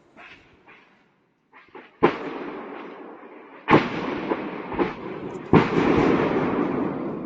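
Ammunition cooking off in a burning depot: three heavy blasts about two, three and a half and five and a half seconds in, each trailing off in a long rolling rumble with crackle, and smaller pops between them.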